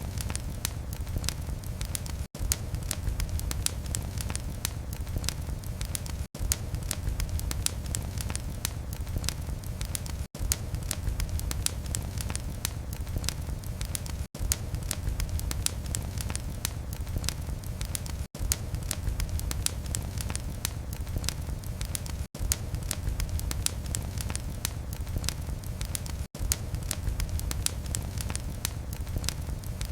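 Wood fire crackling in a fireplace: a dense run of small pops and snaps over a low rumble of flames. A very brief dropout cuts the sound about every four seconds.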